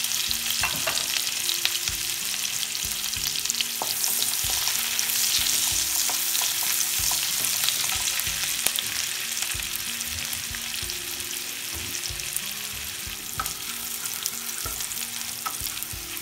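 Chopped garlic and spring onion whites sizzling in shallow oil in a nonstick kadai, stirred with a wooden spatula. A steady hiss runs throughout, dotted with small crackles and the knock of the spatula against the pan.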